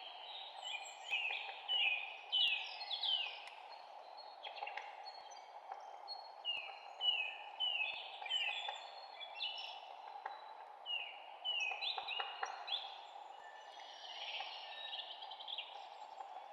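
Several songbirds chirping and calling over one another in quick, mostly falling notes, over a steady background hush of forest ambience.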